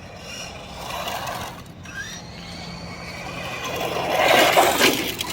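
Radio-controlled car driving on the ground: the electric motor whines and the tyres hiss and scrape, growing louder to a peak about four and a half seconds in as a car passes close.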